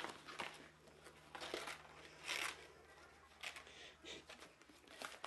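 Faint, irregular crinkling and rustling, a few short scrunches a second or so apart, like paper or plastic being handled or torn.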